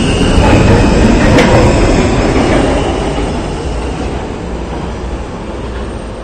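New York City subway train running on the rails with a loud rumble and a high steel-wheel squeal that stops about two and a half seconds in. The rumble then gets gradually quieter.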